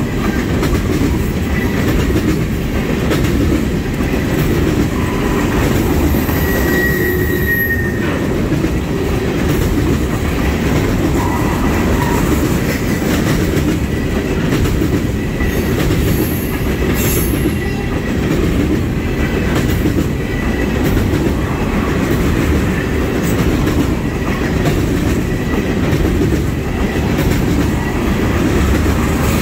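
Oil tank cars of a freight train rolling past close by: a loud, steady rumble of steel wheels on rail, with brief faint wheel squeals, one higher squeal about a quarter of the way through.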